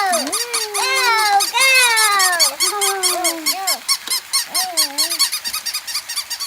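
Puppy whines and yips: a run of high, squeaky calls that mostly slide down in pitch, over a fast steady ticking about seven times a second.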